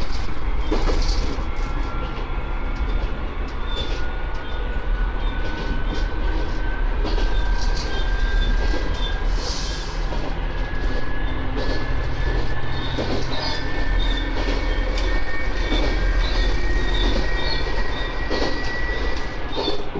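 Diesel railcar running along single track, heard from the cab: a steady low rumble with irregular wheel clicks over rail joints, and a thin whine that slowly rises in pitch.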